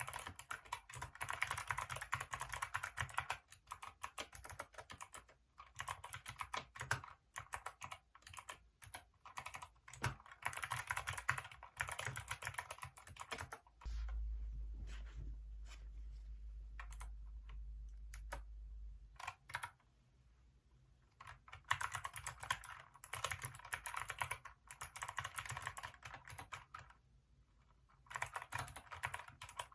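Typing on a Hacker K611 keyboard with Kailh optical switches: fast runs of key clicks broken by short pauses. For about five seconds midway a low steady hum takes over and only a few keystrokes are heard, then the fast typing resumes.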